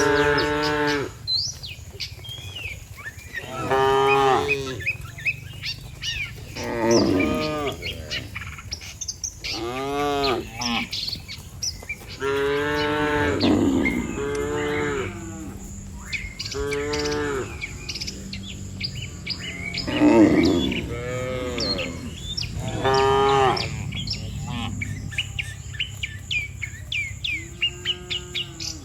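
Cattle mooing again and again, about ten long calls one after another, with birds chirping throughout.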